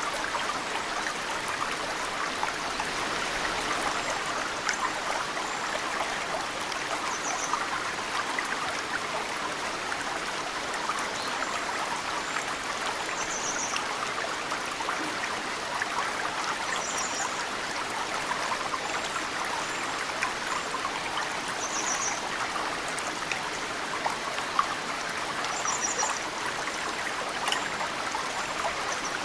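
Mountain stream running steadily, with drops of snowmelt dripping into the water. Short, high bird chirps come about every four to five seconds.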